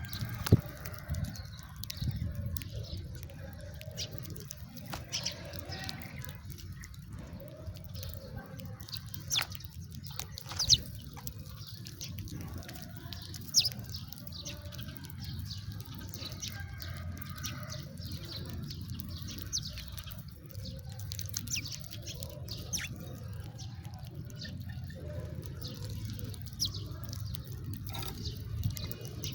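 House sparrows chirping in short, scattered, high chirps over a steady low hum, with a few sharp louder clicks among them.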